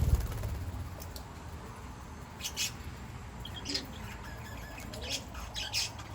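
Garden birds giving short, scattered chirps, a few calls spread over the seconds, over a steady low rumble. A low thump right at the start is the loudest sound.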